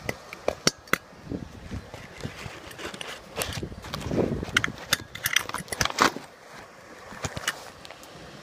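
Irregular clicks and knocks with some rustling, the loudest knocks about 6 seconds in.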